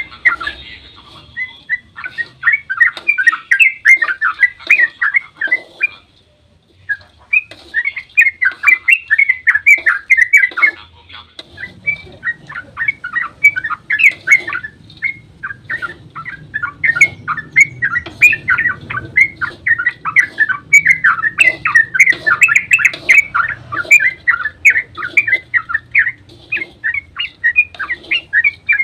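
Yellow-vented bulbul (trucukan) singing a long, rapid run of chattering, bubbling notes, the continuous 'ropel' song used to lure other trucukan into answering. The run breaks briefly about six seconds in and again near eleven seconds.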